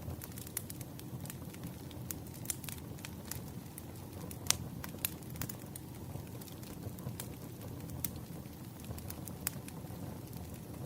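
Campfire burning: a steady low rumble of flames with irregular sharp crackles and pops, one pop louder than the rest about halfway through.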